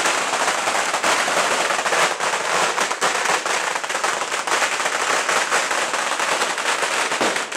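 Strings of Chinese firecrackers going off in a rapid, continuous crackle of sharp bangs.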